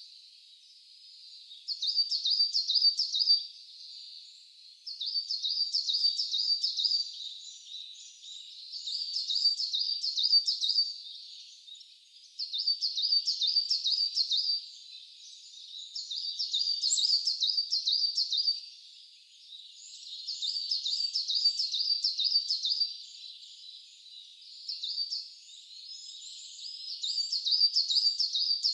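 A songbird singing the same short phrase of quick, high, repeated notes over and over, each phrase about two seconds long with a pause of a second or two between, about eight times. Fainter calls from other birds fill the gaps.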